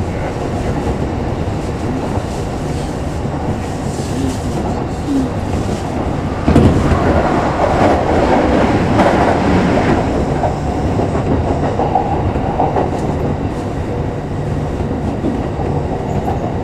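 Electric train running along the line, heard from the driver's cab: a steady rumble of wheels on the rails. About six and a half seconds in, an oncoming train passes close by on the next track, and the sound gets louder and fuller for about three and a half seconds before it settles back to the steady running noise.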